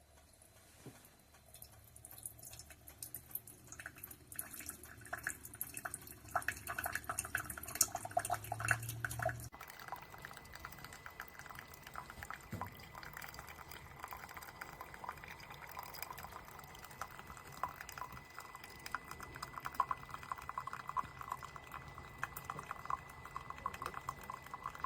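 Horavie Mini single-serve coffee maker brewing, with coffee pouring and dripping into a cup. A low pump hum runs under the pour for about the first ten seconds and stops abruptly; the dripping goes on after it.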